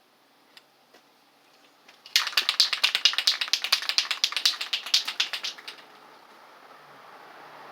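Rust-Oleum filler primer spray can being shaken, its mixing ball rattling fast for about three and a half seconds, starting about two seconds in.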